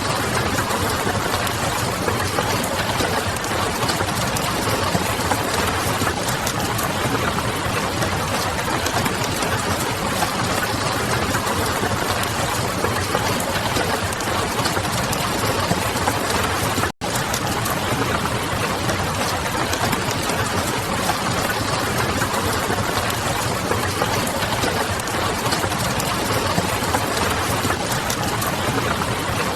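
Steady rain hissing against a window mixed with the fine crackle of a wood fire, a dense even wash of noise. It cuts out for a split second a little past halfway, then carries on unchanged.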